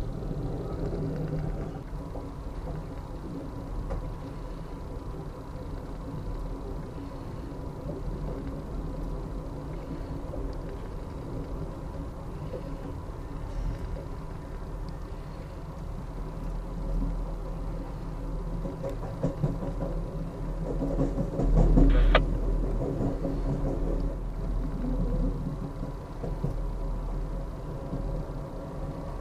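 Steady low rumble of the Amtrak Auto Train rolling along, heard from inside a passenger car. About three quarters of the way through a sharp thump stands out as the loudest sound.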